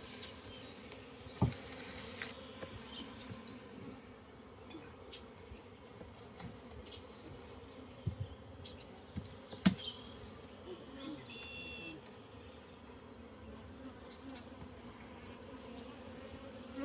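Swarm of honeybees buzzing as a steady hum around an open hive, with a few sharp knocks, the loudest about ten seconds in.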